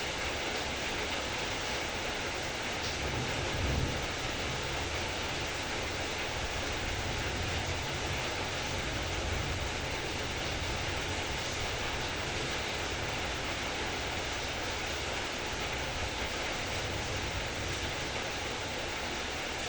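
Heavy rain pouring steadily, an even hiss of downpour, with a brief low rumble about four seconds in and another around nine seconds.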